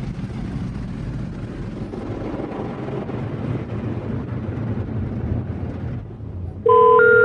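Automatic car wash running, heard from inside the car: a steady low noise of machinery and water. Near the end a much louder steady electronic tone with a few stepped higher beeps starts abruptly.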